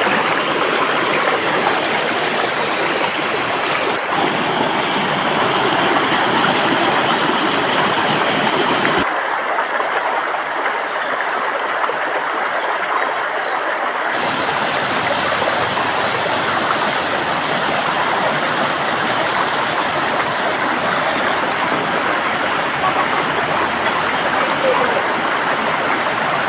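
Flowing water of a stream, rushing steadily. Its tone shifts abruptly about four, nine and fourteen seconds in, with faint high chirps over it.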